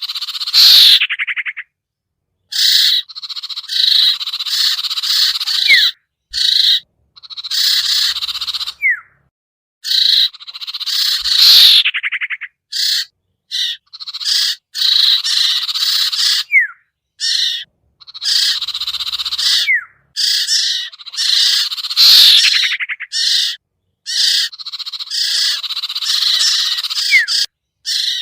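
Bird-lure recording of chattering bird calls in repeated bursts about every two to three seconds. Each burst has some short falling whistles and stops abruptly into dead silence, the way an edited, looped lure track does.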